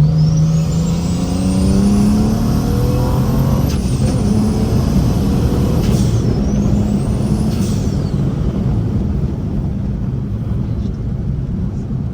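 BMW N54 3.0-litre inline-six with a big single turbo and straight-piped exhaust, run at full throttle up through the gears of a manual gearbox from a rolling anti-lag launch. The engine note and the turbo's whistle climb together, break and drop at each shift about 4, 6 and 8 seconds in, then climb again.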